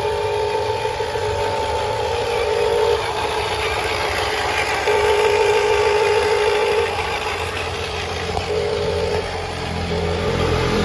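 Remote-control dump truck running, its electric motors whining at a steady pitch in stretches that start and stop over a low steady hum.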